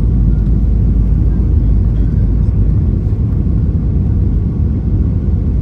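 Airliner cabin noise heard from a passenger seat: a steady, even low rumble of engines and airflow with no distinct events.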